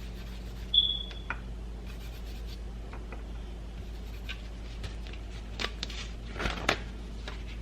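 Gloved hands handling and rolling an egg roll wrapper on a work surface: soft rustles, light scrapes and small clicks, with a short high squeak about a second in, over a steady low hum.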